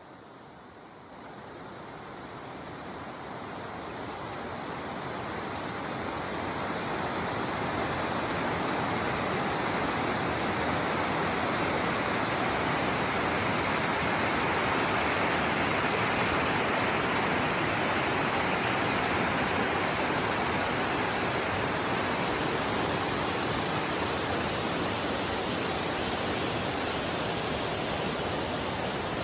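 Steady rushing of fast-flowing water. It swells over the first several seconds, then holds at an even level.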